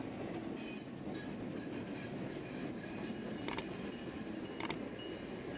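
Diesel freight train rumbling steadily as its lead locomotive comes through a tunnel toward the portal. Two sharp clicks about a second apart cut in near the middle.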